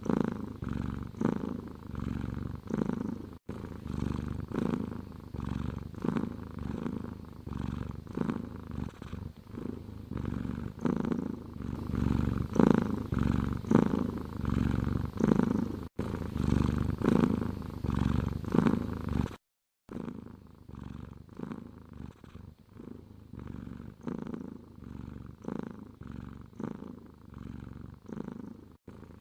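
Domestic cat purring steadily, swelling and fading with each breath about once a second. Brief silent dropouts break it up; after the longest, about two-thirds of the way through, the purring is quieter.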